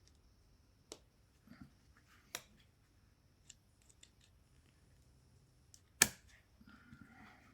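A few scattered sharp metallic clicks and knocks from hand tools being handled during work on the car. The loudest is a single knock about six seconds in.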